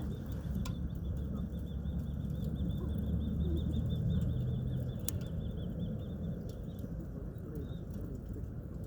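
Campfire burning low before it goes out: a steady low rumble of the flames with a few sharp crackling pops, the clearest one about five seconds in.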